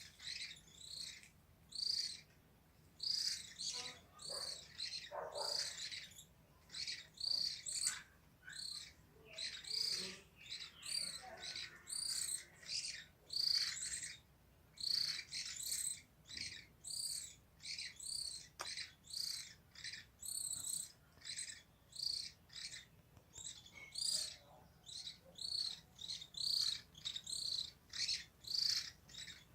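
Small birds calling: a continuous series of short, high chirps repeated every half second or so.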